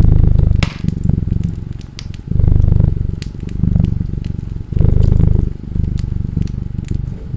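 A domestic cat purring close up, its rumble swelling and fading with each breath, over the sharp pops and crackles of a wood fire burning in a fireplace.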